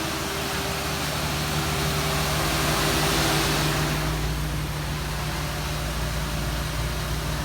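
A car engine idling steadily, a constant low hum, with a hissing rush that swells in the middle and fades about four seconds in.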